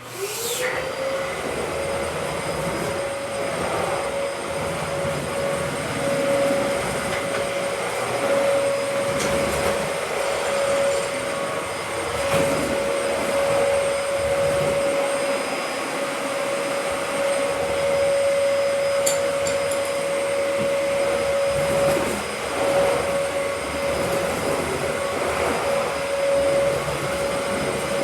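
Vacuum cleaner switched on, its motor spinning up within a moment to a steady whine and running on evenly.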